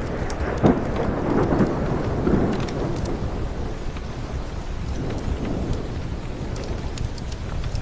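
Steady rain with a roll of thunder that rumbles loudest in the first couple of seconds and then slowly dies away, with scattered sharp ticks over it.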